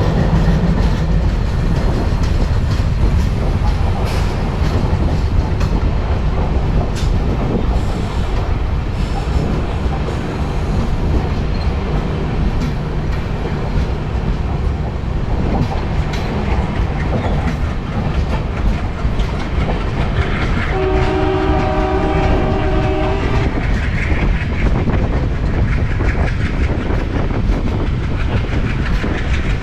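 Train running past close by, with a steady loud rumble and wheels clattering over the rails. About twenty seconds in, its horn sounds one long blast of roughly three seconds.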